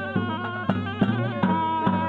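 Traditional Gilgit-Baltistan polo music: a surnai (double-reed shawm) playing a wavering, reedy melody over a low drone, with drums beating a steady rhythm.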